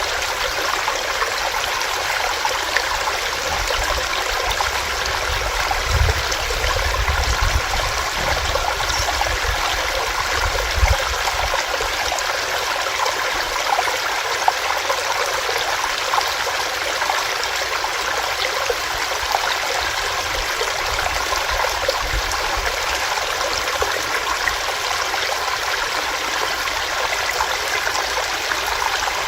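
Small stream of water running over rocks: a steady, even rush of flowing water. A low rumble swells beneath it between about six and eleven seconds in.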